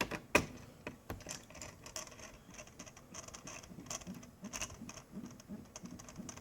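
Small clicks and scraping of laptop parts being handled and fitted, with a sharper click about half a second in.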